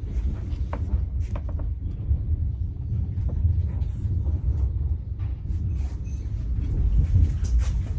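A train running, with a steady low rumble and a few faint clicks and rattles over it.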